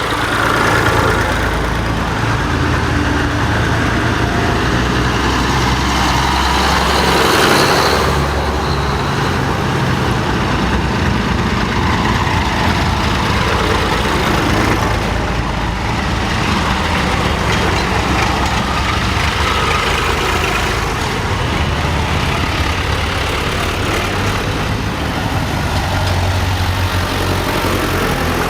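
Diesel tractor engines running steadily, one swelling louder about seven seconds in.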